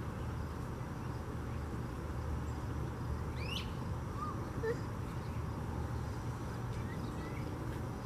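Outdoor ambience: a steady low rumble with a few faint bird calls, one a quick upward-sweeping chirp about three and a half seconds in.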